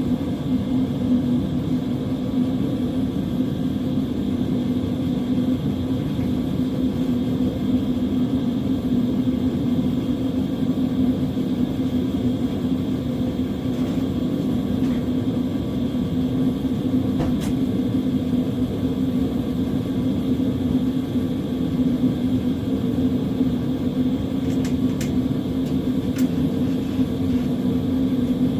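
An engine idling steadily, its pitch and level even throughout, with a few faint clicks in the second half.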